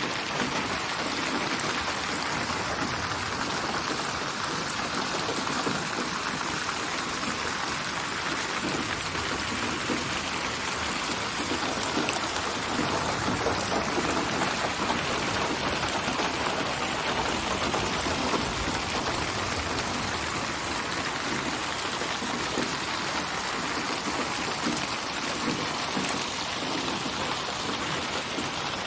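Steady rain falling, a dense patter of drops on a surface with an even hiss.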